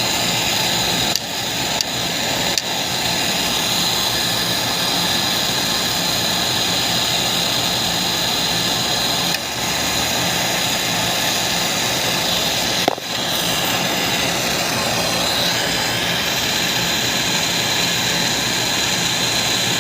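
Steady machine running noise with a constant high whine, interrupted by a few brief clicks and dips.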